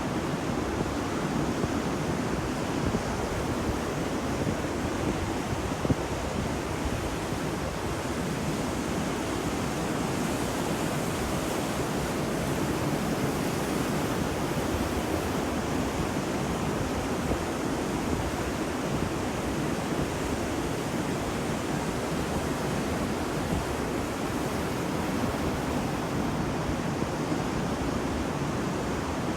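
Ocean surf washing onto a beach in a steady, continuous rush, with a gentle swell partway through.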